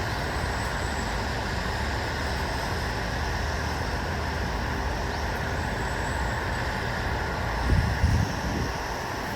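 Steady, hissing ambient noise over a low hum, with a brief low rumble about eight seconds in.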